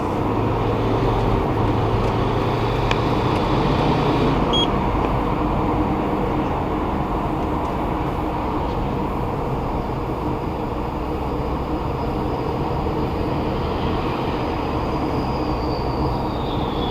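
2016 Subaru Forester XT under way with its turbocharged engine at about 0.8 bar of boost: steady engine and road rumble with a faint high-pitched whine above it, which shifts and rises in pitch near the end.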